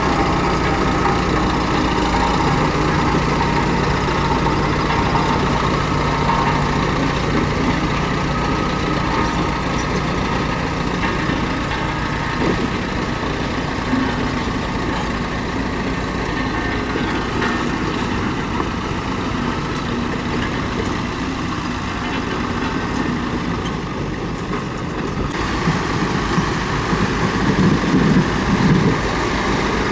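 Komatsu D31P bulldozer's diesel engine running under load as it pushes and spreads stone, with the tracks clattering. The sound changes about 25 s in, and a few louder knocks come near the end.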